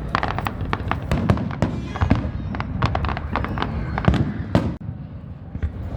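Fireworks display: a rapid, irregular run of sharp bangs and crackling pops, several a second, over a low rumble of booming bursts. The bangs come loudest a little after four seconds in and ease off briefly just before five seconds.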